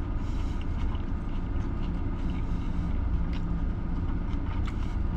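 Steady low hum of an idling car, heard inside the cabin, with faint clicks of chewing over it.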